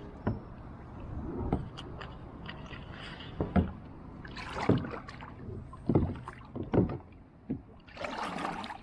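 Kayak paddling: paddle blades dipping and swishing through the water, with irregular sharp knocks and splashes every second or so and a longer splash near the end.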